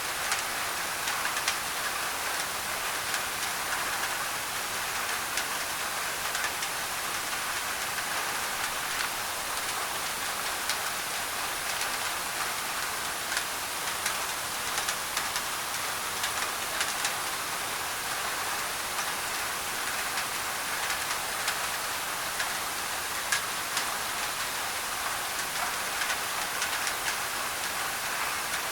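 Heavy rain falling on a thin tin roof, blended with white noise. It is a steady hiss with many small, sharp drop ticks scattered through it.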